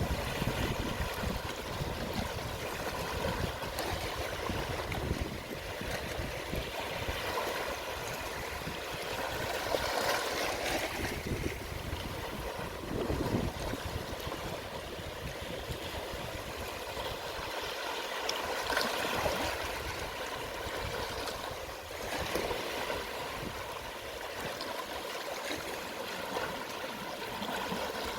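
Calm sea at low tide: small waves washing in over the shore and draining back, a steady wash of water that swells gently every few seconds.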